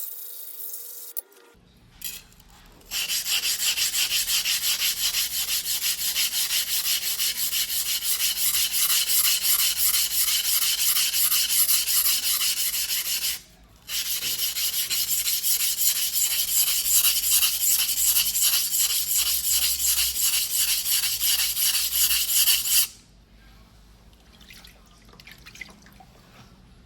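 A yanagiba's steel blade is stroked back and forth on a whetstone in hand sharpening, a steady rasping scrape at about three strokes a second. It pauses briefly near the middle and stops a few seconds before the end.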